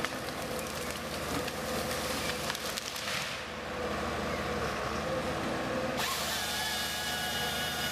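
Machinery running steadily, with sudden changes in its sound about three and a half and six seconds in, where the footage cuts between machines.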